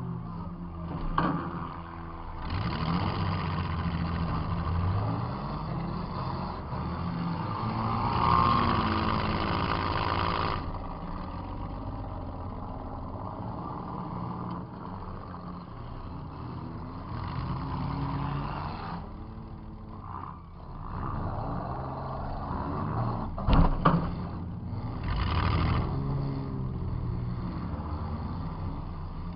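Demolition derby car's engine revving up and down repeatedly, heard from inside the car. A sharp bang comes about a second in, and a louder cluster of bangs comes late on, from hits between cars.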